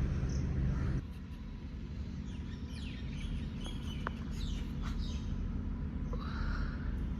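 Small birds chirping, a quick run of short falling chirps in the middle, over a low steady rumble that drops about a second in.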